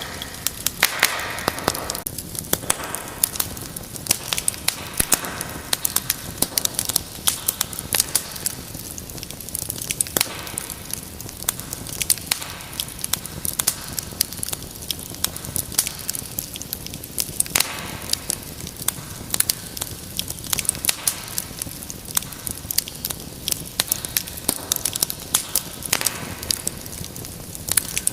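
Wood fire burning in a fireplace, crackling steadily with many sharp, irregular pops over a soft hiss of flame.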